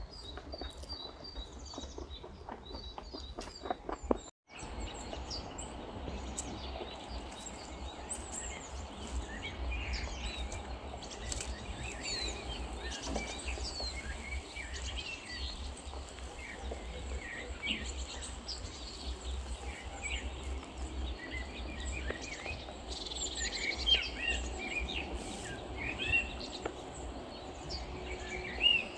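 Small birds chirping on and off over a steady low outdoor rumble, with a run of light clicks and patter in the first few seconds and a brief cut to silence about four seconds in.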